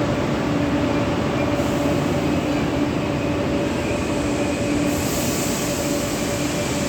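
Korean high-speed train running at a steady pace: an even rushing noise with a low, constant hum underneath.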